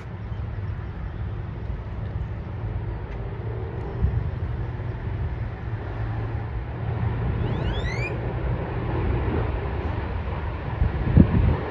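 Jet engine rumble from an arriving Southwest Boeing 737 MAX 8 with CFM LEAP-1B engines, mixed with wind buffeting the microphone. A short rising whistle comes about eight seconds in, and a brief bump near the end.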